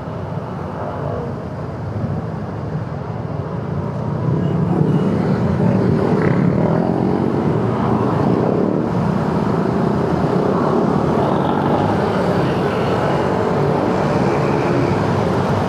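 Motorcycle running on the road, its engine and road noise steady, getting louder about four seconds in.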